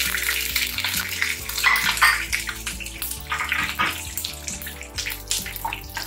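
Chopped garlic and cumin seeds sizzling in hot oil in a kadai, a steady hiss with irregular crackles and pops as the garlic starts to fry.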